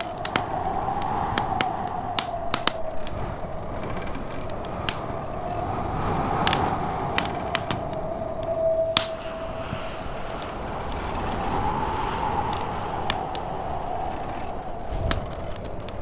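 Wood fire in a fireplace crackling with frequent sharp pops, over a snowstorm wind that howls and slowly rises and falls in pitch.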